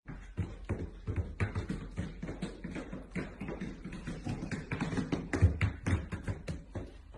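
Rapid, irregular light tapping and knocking, several taps a second.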